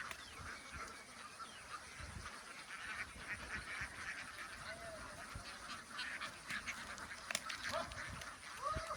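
A flock of ducks on the move, with scattered short quacks and honks over a steady patter of splashing and paddling in shallow floodwater.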